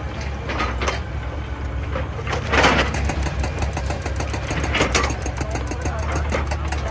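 Excavator's diesel engine running steadily, with three short harsh bursts of noise on top, such as the machine working rock.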